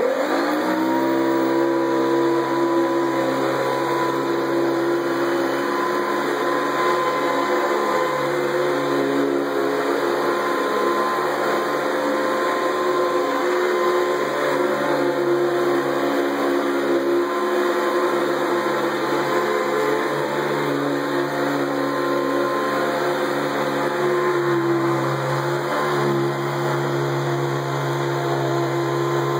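Hoover Decade 80 U4385 upright vacuum cleaner switched on: its motor spins up with a rising whine over about the first second, then runs steadily.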